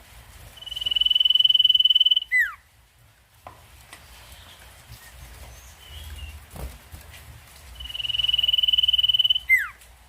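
Common iora (sirtu) song, given twice: a long trilled whistle held on one pitch for about a second and a half, ending in a quick falling note.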